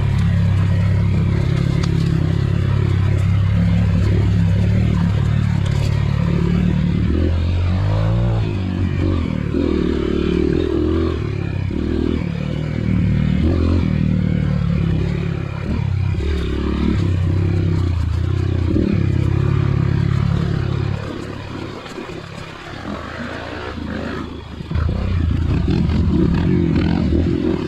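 Trail dirt bike engine running while ridden, the throttle opening and closing as the pitch and level shift. The engine drops to a quieter, lower running for a few seconds past the two-thirds mark, then picks up again near the end.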